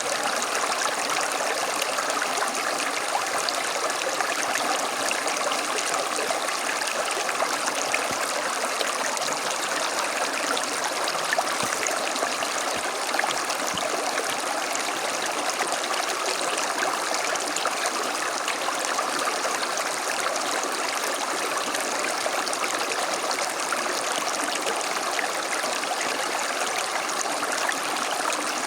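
A small creek running steadily over stones, a continuous babbling and trickling flow.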